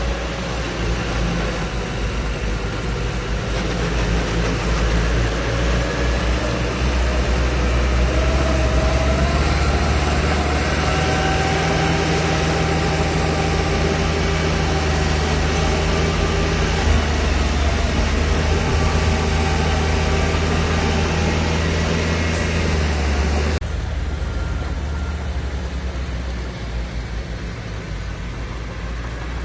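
Heavy diesel engine of earthmoving machinery running under load as a steady low drone, growing louder a few seconds in. About three-quarters of the way through, the sound changes abruptly and becomes duller and a little quieter.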